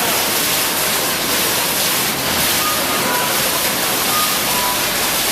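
Steady rush of water pouring down from a waterfall swing's overhead frame.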